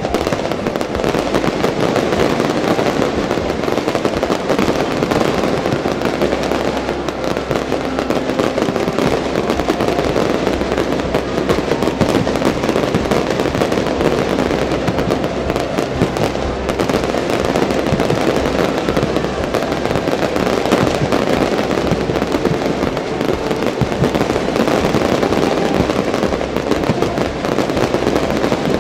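Fireworks display: many aerial shells bursting and crackling in a dense, steady barrage with no pauses.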